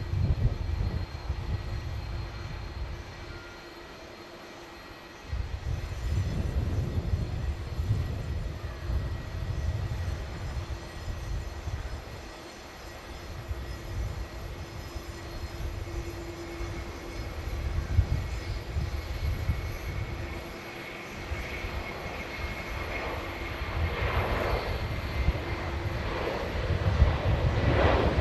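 Airliner engines running, with a steady whine over an uneven low rumble; the noise grows louder in the last few seconds.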